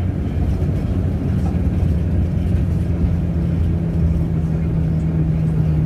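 Steady engine and road rumble of a moving road vehicle, heard from inside. A steady low hum grows stronger about two seconds in.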